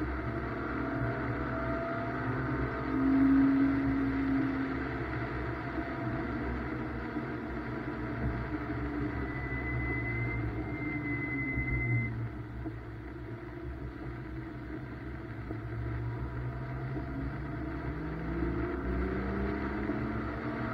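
BMW M2's engine under way on a wet race track, its note climbing and dropping as the car accelerates and slows, loudest a few seconds in and rising again near the end. A thin high tone sounds for a few seconds near the middle.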